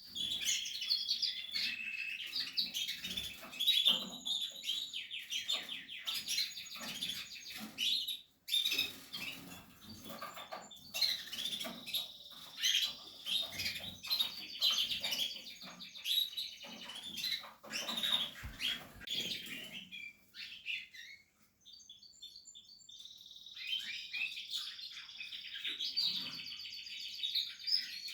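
Portuguese harlequin canaries chirping and trilling in quick, high-pitched runs, with a pause of a few seconds about two-thirds of the way through.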